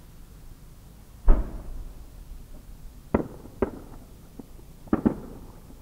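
Firework shell reports from large 30 cm shakudama aerial shells: one deep boom with a long tail about a second in, then several sharper bangs, the last two close together near the end.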